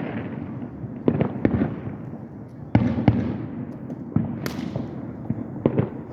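Fireworks bursting overhead: about eight sharp booms at uneven intervals, often in close pairs, each trailing off in an echoing rumble.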